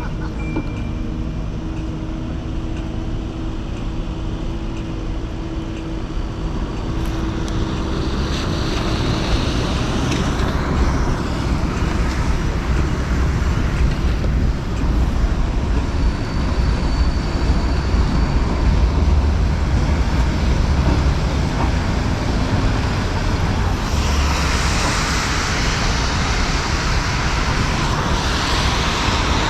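City street traffic: a steady rumble of vehicles on the road, with louder swells as vehicles pass about eight seconds in and again near the end.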